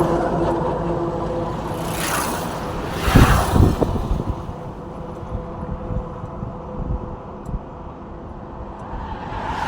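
Road traffic: vehicle engines running and vehicles passing by, with a loud burst of noise about three seconds in and another vehicle coming up near the end.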